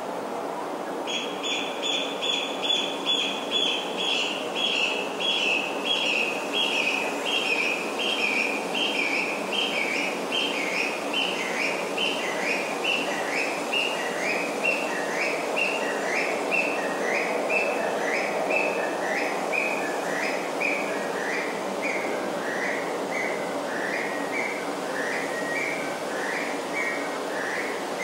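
A bird calling in one long unbroken run of short, quick, repeated notes. The notes start about a second in, then gradually fall in pitch and slow down. Behind them is a steady rushing hiss.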